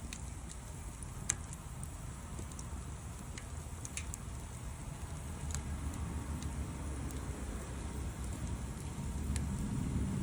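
Wood fire crackling: scattered sharp pops over a low rumble, with one louder pop about a second in.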